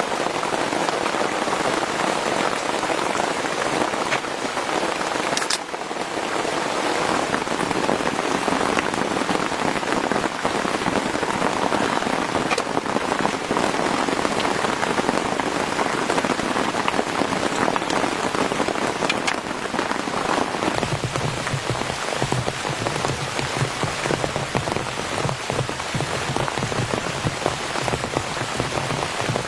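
Heavy rain falling steadily, a dense patter of drops on a tent, with a few sharper drip clicks. A lower, deeper layer joins in about two-thirds of the way through.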